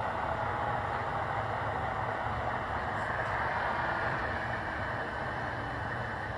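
Recorded diesel engine sound from a Broadway Limited Imports F9 model locomotive's sound decoder, played through its small onboard speaker and running steadily as part of the decoder's shutdown sequence.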